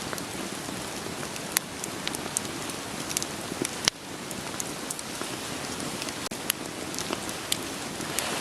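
Steady rain hiss with a wood fire crackling over it: sharp irregular pops from the burning logs, a few a second, two of them louder, about one and a half and four seconds in.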